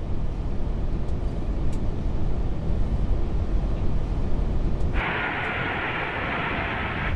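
Steady low rumble of airflow and engines in an Airbus A380 cockpit on short final approach. About five seconds in, a hiss in the middle range switches on abruptly, like an open radio channel, and holds while the low rumble fades.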